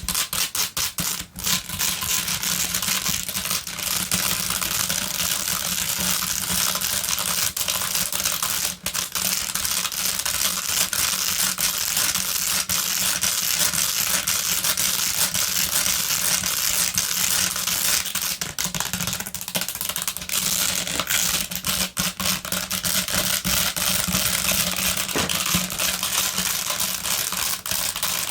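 Fast, aggressive tapping and scratching with long fingernails on a pink basket: a dense, continuous run of rapid clicks and scrapes.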